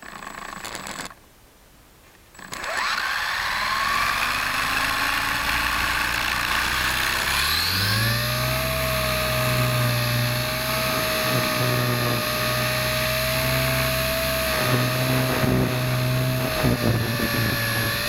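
WLtoys V120D02S mini RC helicopter's motor and rotors spooling up. The motor starts about two and a half seconds in, its whine rises for several seconds, then it settles to a steady whir with a low hum under a higher tone.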